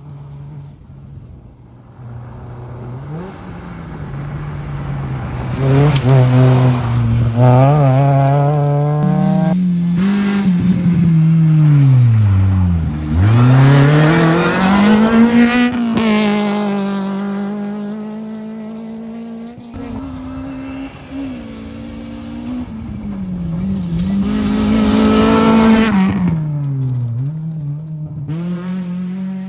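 Rally car engine revving hard and changing gear on a gravel special stage, its note climbing and falling repeatedly. Around the middle the revs fall steeply and then climb again, and the engine is loud again near the end.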